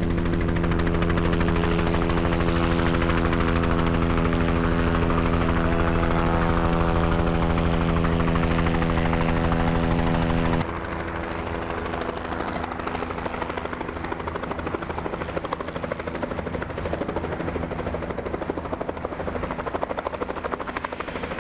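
Helicopter running close by with a steady, loud pitched hum from its rotor and engine; about ten seconds in the sound cuts abruptly to a quieter, rougher helicopter sound.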